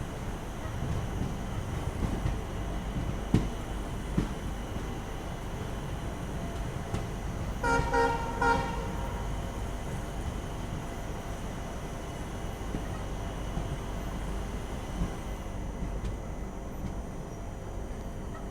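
Steady low rumble of an Indian Railways passenger train, with two sharp knocks a few seconds in. About eight seconds in a horn sounds briefly in about three short pulses.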